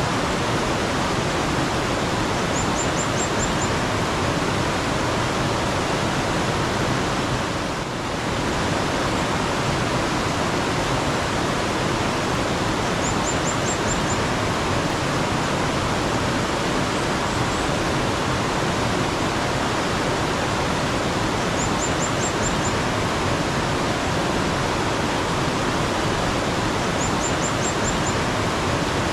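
Mountain stream water flowing steadily, with a small bird giving a quick run of about five high chirps four times.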